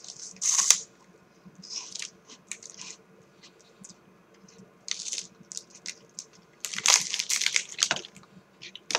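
Crunching and chewing of a dry Umaibo corn puff stick: irregular clusters of sharp crackles, the densest run about seven to eight seconds in.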